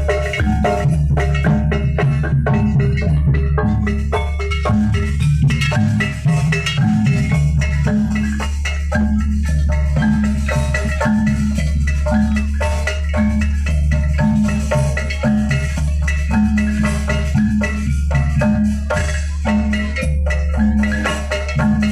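Loud live jaranan gamelan music: metallophones play quick struck notes over drums and a steady low bass, with a regular repeating beat.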